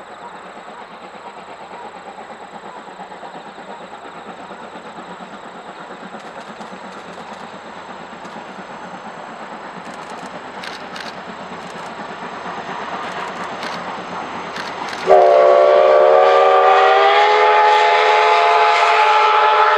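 An approaching train, its running noise growing steadily louder with scattered clicks of wheels over rail joints. About fifteen seconds in, a steam locomotive whistle starts suddenly, loud and chord-like with several tones, rising slightly in pitch at first and then held as one long blast.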